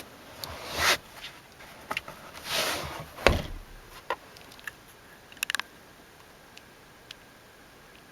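Handling noises from someone moving about a car's back seat: two brief swishes of rustling, a dull thump about three seconds in, then a few light clicks before it settles to a faint background.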